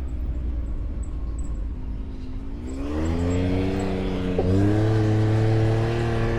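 Off-road vehicle's engine running at low revs, then picking up revs about three seconds in and holding a higher steady pitch, stepping up once more about halfway through.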